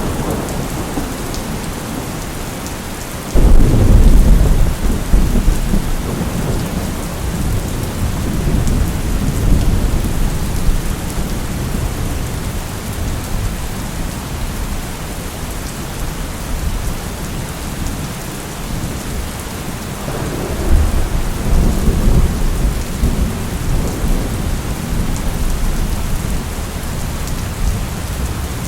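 Thunderstorm: steady rain, with a sudden clap of thunder about three seconds in that is the loudest sound and rumbles on for several seconds. A second, softer thunder rumble comes about twenty seconds in.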